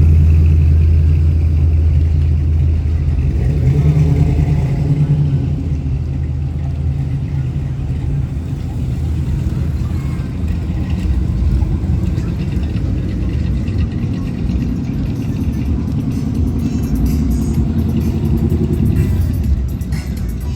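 A vehicle engine running with a deep low rumble, loudest at the start and easing off over the first few seconds, then a steady rumble, with voices and music in the background.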